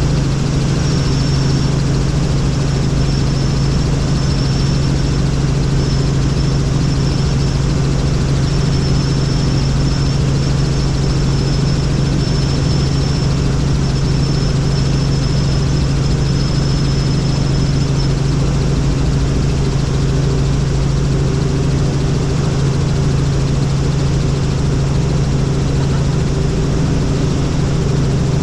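Helicopter in flight: a steady, loud low drone of the engine and rotors, with a thin high whine above it that stops about two-thirds of the way through.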